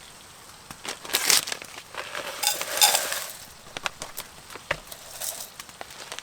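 Crinkling and rustling of food packaging with scattered small clicks and knocks of cooking gear while food is seasoned. The rustling comes in two louder spells, about a second in and around three seconds in.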